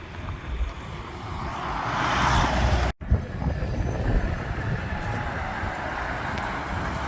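A lorry drives past, its engine and tyre noise building over the first three seconds. The sound cuts off abruptly, then a steadier lorry rumble follows.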